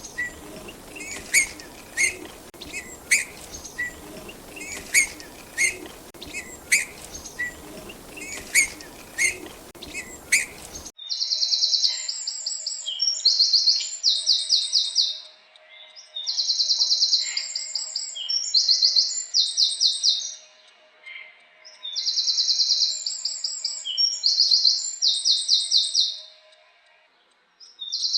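A bird chirping, short high calls about once or twice a second. About eleven seconds in this gives way to a songbird repeating a high, rapid trilled song phrase every few seconds.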